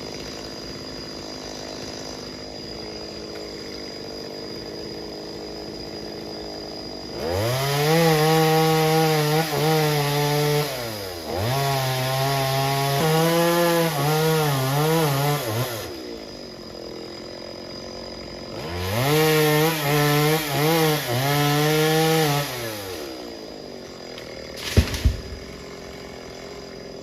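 Two-stroke chainsaw running low at first, then opened up to full throttle in three long bursts whose pitch dips and recovers, as when the chain bites into wood. Two sharp knocks come near the end.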